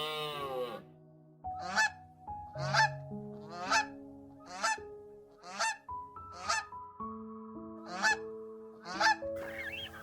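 A bird honking in short, sharp calls, about eight of them roughly a second apart, over background music of sustained notes.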